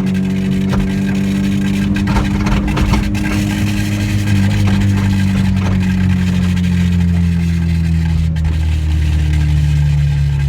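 Car engine and exhaust droning steadily at highway cruise, the pitch easing slowly lower as the car slows a little.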